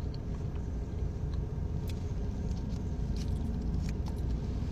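Steady low rumble of an idling car engine, with a few faint clicks over it.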